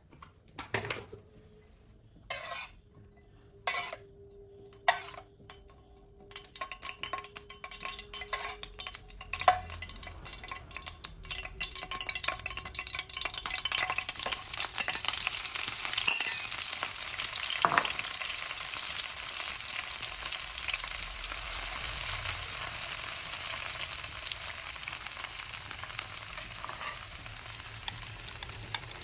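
Eggs frying in a pan, with a few sharp knocks and clinks of a utensil against the pan over the first several seconds. Then the sizzling builds from about halfway and runs on steadily.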